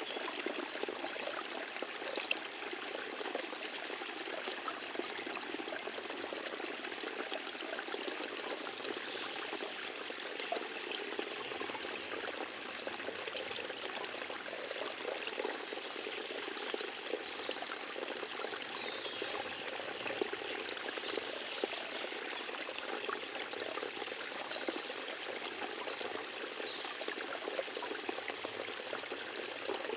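Forest stream trickling and babbling steadily over its bed.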